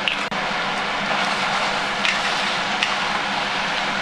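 Stir-fried udon with prawns, squid and vegetables sizzling in a frying pan with its sauce: a steady hiss with a few faint crackles, briefly cutting out just after the start.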